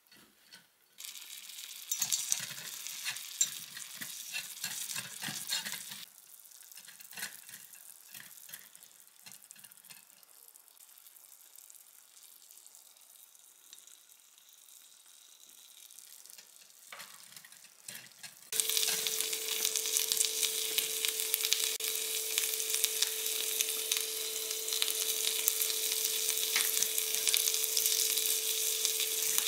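Ground chicken frying in a miniature pan, crackling and sizzling while a tiny silicone spatula stirs and scrapes. The sizzle drops away for a stretch in the middle with only light taps, then about two-thirds of the way in it suddenly gets louder and stays, with a steady hum beneath it.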